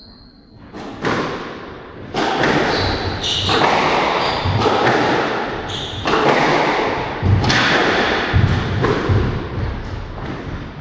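A squash rally: the ball is struck by the rackets and hits the court walls, with a sharp thud about once a second, each ringing briefly in the court, and a few short high squeaks in between.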